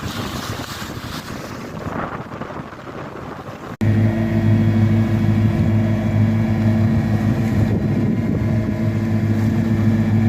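Wind and water rushing past a sailing yacht, then an abrupt cut about four seconds in to the steady drone of the yacht's engine running.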